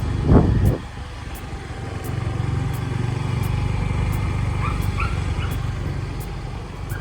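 Motorbike engine running steadily under way, a low even rumble. A short loud sound comes about half a second in, and a few faint high calls sound about five seconds in.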